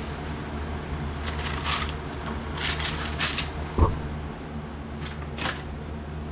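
Handling noises: several short rustling or scraping sounds and one sharp knock a little before four seconds in, over a steady low hum.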